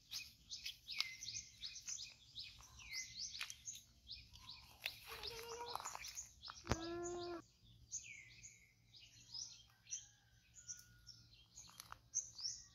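Birds chirping: many short, quick high chirps that sweep downward, with one longer, steadier call a little past the middle.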